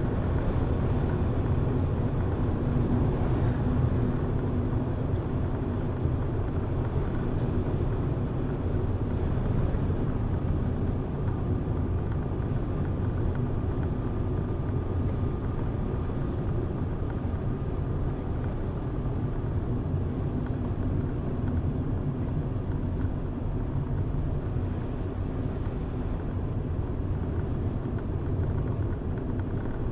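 A car driving at a steady pace, with its engine and tyres making a constant low rumble. A faint high whine rises above it about a third of the way in and fades after several seconds.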